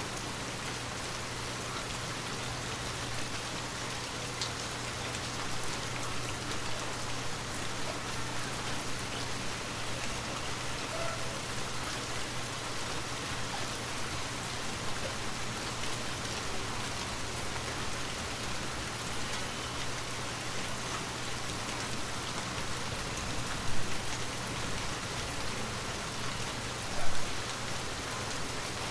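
Rain falling steadily, an even hiss of drops on surfaces, over a faint steady low hum. Two brief louder hits come near the end.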